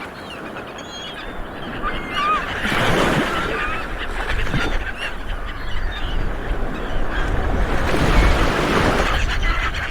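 A flock of seabirds calling, many short calls that bend up and down in pitch, over a rushing background of surf that swells about three seconds in and again near the end.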